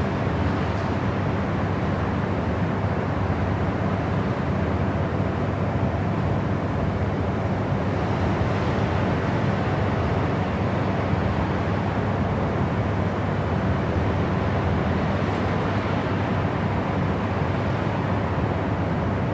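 Steady white-noise sleep track: an even, unbroken rushing noise, deep rather than hissy, that never changes in level.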